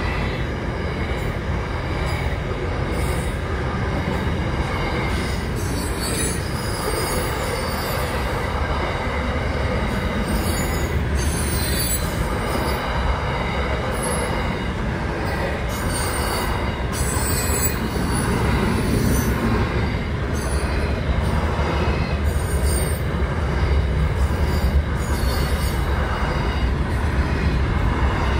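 Container freight train rolling past, its wagons making a steady rumble on the rails, with a high wheel squeal now and then.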